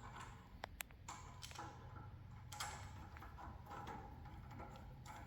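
Faint, scattered clicks and taps of small hydraulic fittings and parts being handled, over a low steady hum.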